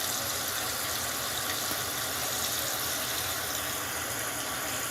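Water running steadily into the plastic wash tub of a mini twin tub washing machine as it fills for the rinse.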